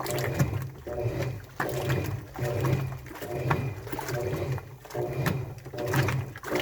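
Washing machine in its wash cycle, the drum turning with a motor hum and a swish of wet laundry that pulse about every 0.7 seconds.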